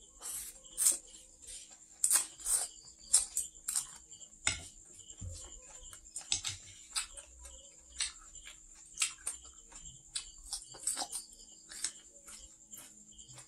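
Close-up eating sounds of stir-fried noodles with water spinach: irregular short wet clicks and smacks of chewing and slurping, with a faint steady high-pitched whine underneath.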